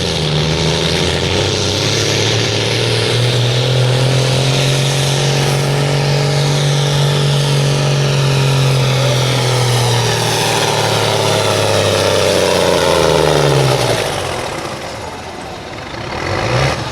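Modified pulling tractor's engine running at full power under load, its pitch holding high and steady, then falling with the sound dropping away about three-quarters of the way through as the revs come down.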